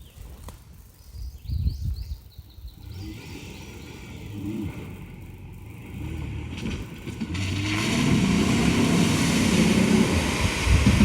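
Mazda pickup truck engine revving while the truck works through mud, getting louder about two-thirds of the way through as a rushing hiss of spinning tyres churning mud and water joins it.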